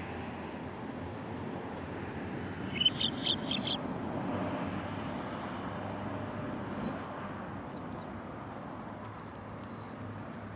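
A bird gives a quick run of about five short, high call notes about three seconds in, over a steady background hiss.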